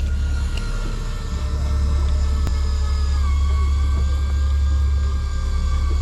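A fishing boat's engines running steadily with a deep rumble, with a high whine over it that drops slightly in pitch about three seconds in.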